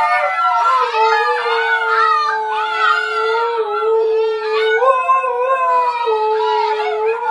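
An adult husky and a litter of husky puppies howling together: one long, steady low howl is held under several higher, wavering puppy howls.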